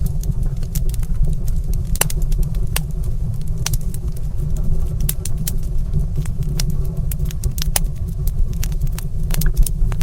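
Wood fire crackling in a stone fireplace: frequent sharp, irregular pops and snaps over a steady low rumble.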